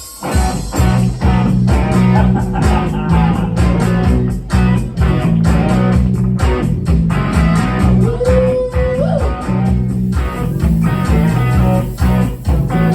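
Band music starting abruptly: electric guitar over bass and drums, playing an instrumental passage with a steady beat.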